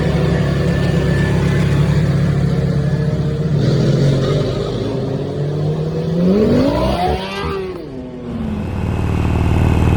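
Motorcycle engine running, revved once about six seconds in with a sharp rise and fall in pitch, then settling back to a steady low rumble.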